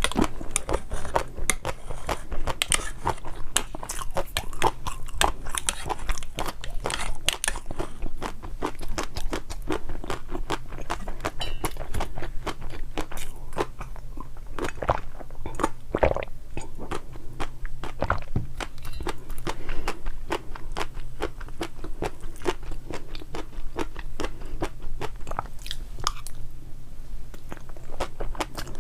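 Close-miked eating: continuous crunching and chewing, with rapid crackling bites throughout.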